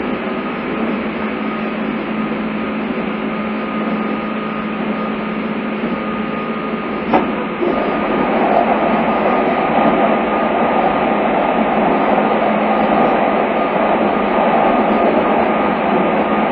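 Running noise of a JR East 201 series electric train heard from inside the car: a steady rolling rumble with a constant hum. A sharp click comes about seven seconds in, after which the running noise grows louder.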